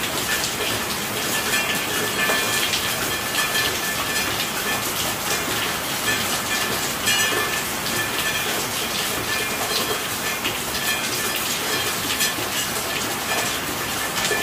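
Steady heavy rain, a dense even hiss of drops that goes on without a break.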